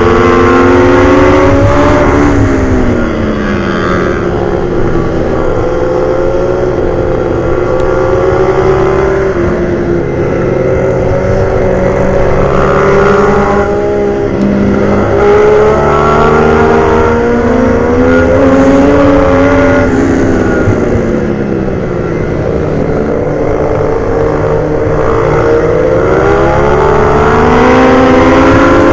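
Pit bike's engine at racing revs, its pitch climbing under acceleration and falling under braking again and again, with a long drop about twenty seconds in and then a long climb.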